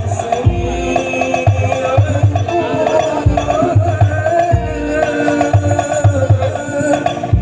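DJ remix dance music playing loud through a 'sound horeg' sound system stacked with twelve subwoofers: heavy bass beats repeat under a wavering melody line.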